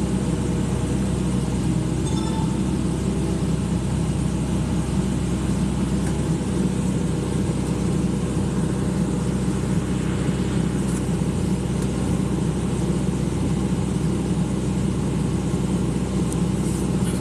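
Excavator's diesel engine running steadily at a constant, even drone.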